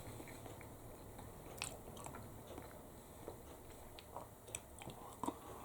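A person faintly chewing a mouthful of chicken and noodles, with scattered small wet mouth clicks.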